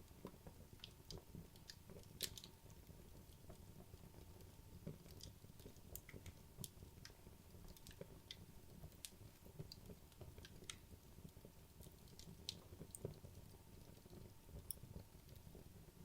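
Wood logs burning in a fireplace, crackling quietly: scattered sharp pops and snaps, the loudest about two seconds in and again near thirteen seconds, over a low steady rumble of the flames.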